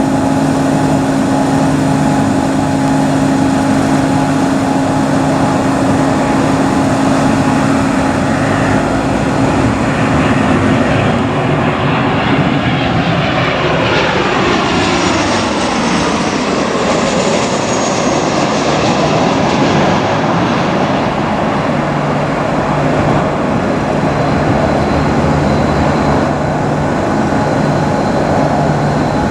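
Jet airliner on final approach, a Boeing 737-700 with its CFM56-7B turbofans running. The engine noise swells and sweeps in pitch as the plane passes, most strongly around the middle, then goes steady again.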